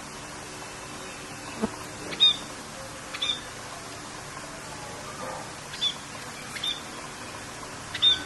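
Birds giving short, sharp chirps about five times, spaced irregularly, over a steady hiss of rain.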